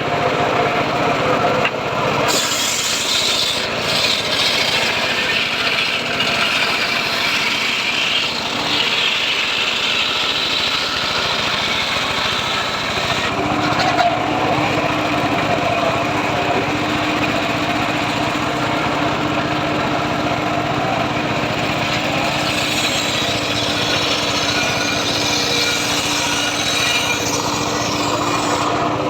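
Homemade circular saw cutting teak wood, running steadily; a steady hum comes in about halfway through.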